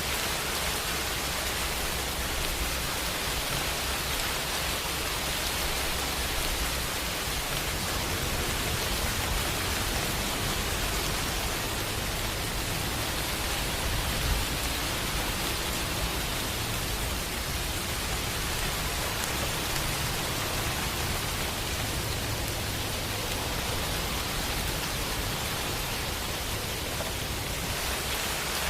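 Steady rain falling as an even hiss, with a low rumble of distant thunder swelling from about a quarter of the way in and fading near the end.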